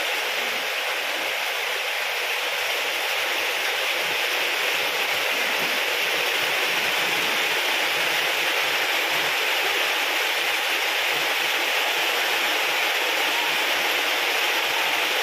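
Very heavy rain pouring down, a steady dense noise of the downpour.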